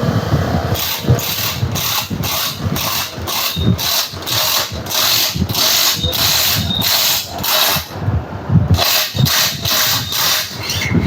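Rhythmic rasping strokes of a hand tool working metal, about two or three a second, with a short pause near the end.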